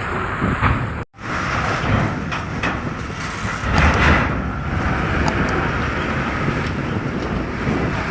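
Outdoor vehicle and engine noise: a steady rumble with a few faint clicks. It cuts out completely for a moment about a second in, then resumes.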